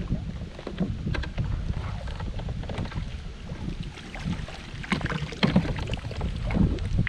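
Wind buffeting the microphone over water, with scattered small knocks and splashes against a kayak.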